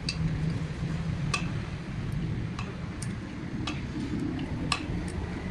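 Light, sharp clicks and taps, about seven at uneven intervals, over a steady low rumble, typical of hand work with metal tools on engine parts.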